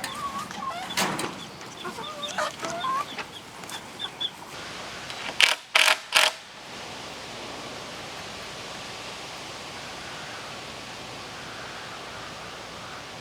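Domestic laying hens clucking and cackling in a string of short calls. About five seconds in come three sharp knocks, followed by a steady hiss.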